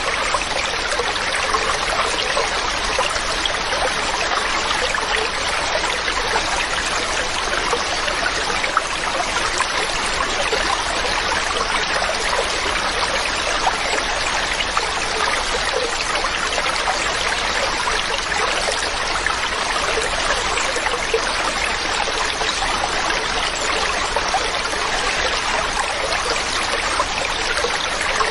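Mountain stream running steadily over rocks, an even rushing and trickling of water.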